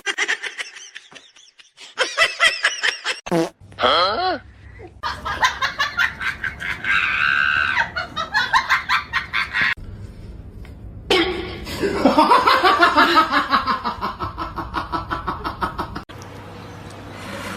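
People laughing in repeated bursts of quick pulses, in several separate stretches broken by abrupt cuts.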